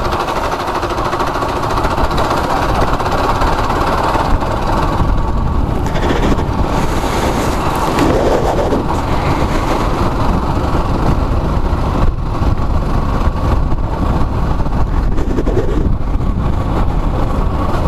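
Steady rush of wind and road noise from a moving motorcycle, with its engine running underneath.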